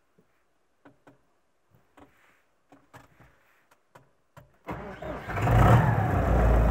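A few faint clicks, then about five seconds in a D-243 four-cylinder tractor diesel cranks and catches at once, settling into a steady run. It is a warm start just after the fuel injection pump was repaired, and the engine starts normally.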